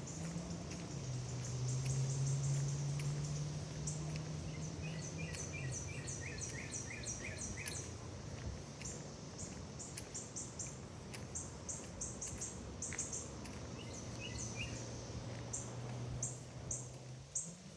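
Woodland birds chirping in rapid repeated series of short high notes, over a steady low hum that fades near the end.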